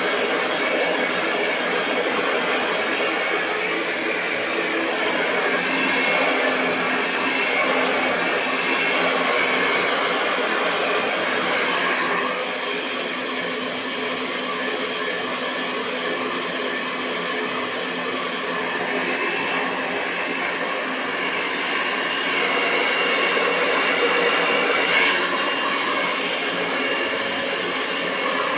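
Hair dryer running continuously, a steady rush of air with a faint motor whine in it.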